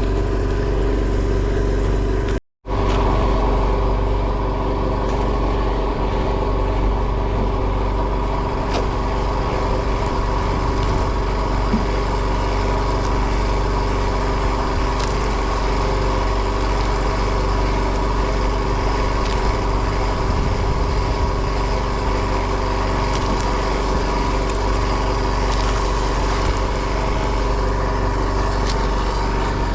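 A fishing boat's engine running steadily, a constant drone that cuts out briefly about two and a half seconds in.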